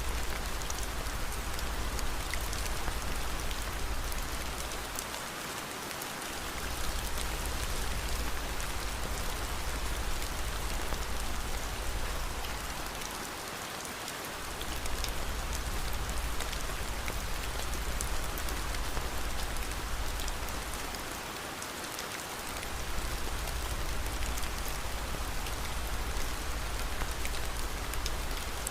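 Steady rain, an even hiss sprinkled with fine drop ticks, over a low rumble that dips out briefly three times, about every eight seconds.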